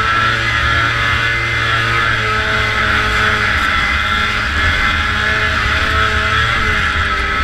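Vintage two-stroke snowmobile engine running at steady high revs under throttle, its pitch wavering slightly, with a steady rushing hiss over it.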